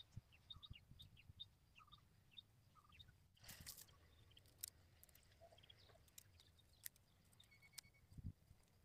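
Near silence with faint, short bird chirps repeating in the first few seconds, and a few light clicks.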